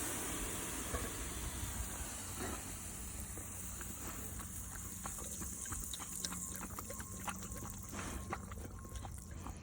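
Garden hose nozzle hissing as the water pressure left in the hose is let out after the tap is turned off. The spray slowly weakens, with scattered small clicks and splashes.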